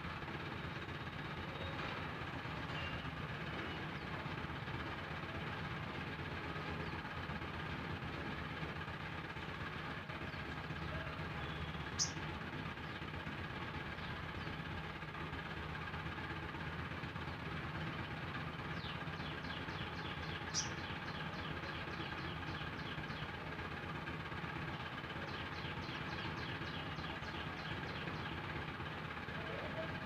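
Small birds calling: two short, sharp high chirps and two runs of rapid high chattering, about five ticks a second, over a steady background hum.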